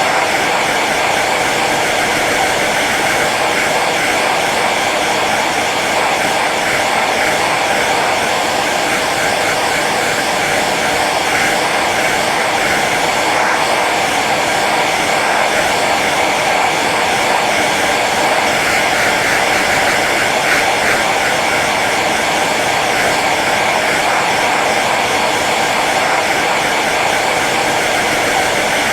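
Hair dryer running steadily on its low setting, an even blowing hiss with a faint motor hum.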